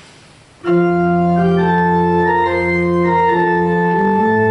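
Organ postlude beginning: after a brief hush, full sustained organ chords start suddenly under a second in and move on with a walking bass.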